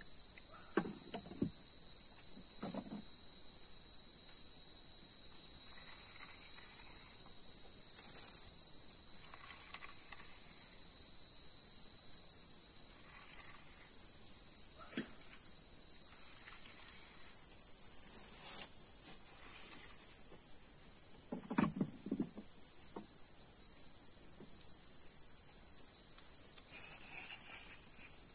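Steady, dense high-pitched chorus of night insects such as crickets. A few short knocks break in, the loudest cluster a little past two-thirds of the way through.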